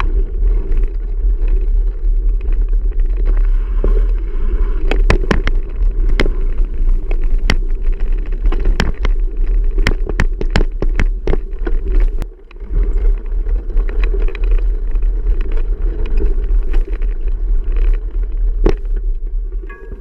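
A bicycle riding over a trail: a steady rumble with frequent clicks and knocks, as the bike rattles over rough ground, briefly easing about two-thirds of the way in.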